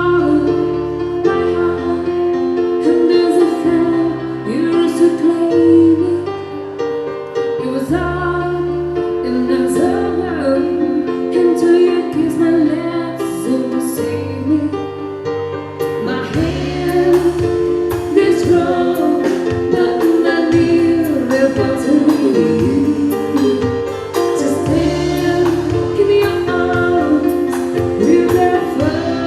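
Banda music: a Mexican brass band plays held horn chords over a stepping bass line, with singing. Fuller percussion comes in a little over halfway.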